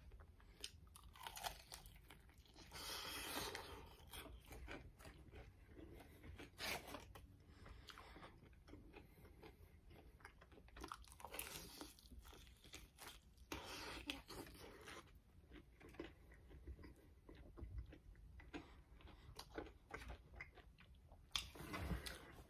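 Quiet, close crunching bites and chewing of a crispy fried chicken drumstick, in irregular clusters of crisp crackles.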